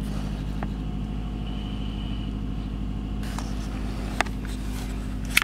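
Car engine idling, heard from inside the cabin: a steady low hum, with a short click about four seconds in.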